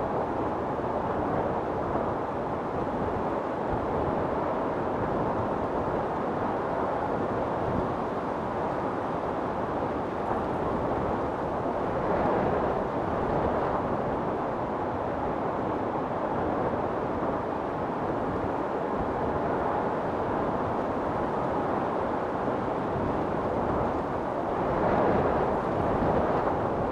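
Storm wind blowing steadily in a deep rushing noise, with gusts swelling about twelve seconds in and again near the end.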